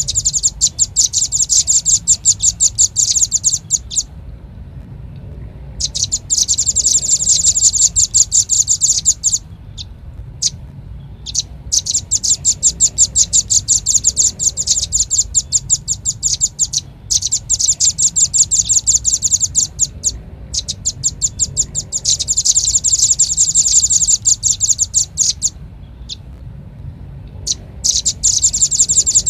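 Velvet-fronted nuthatch calls: rapid runs of high, sharp chip notes, many per second. Each run lasts a few seconds, with short pauses between them. A faint low hum sits underneath.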